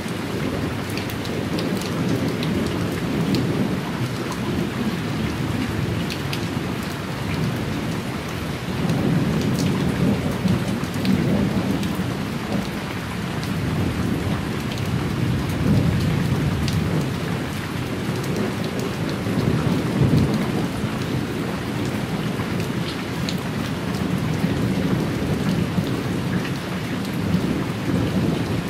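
Thunderstorm: steady rain falling and pattering, with low rolling thunder that swells up and dies away a couple of times.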